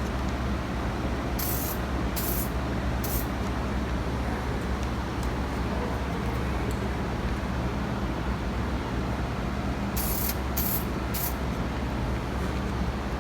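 Short hissing bursts from an aerosol can of flat black spray paint, three quick sprays about a second in and three more near the end. A steady low hum runs under them.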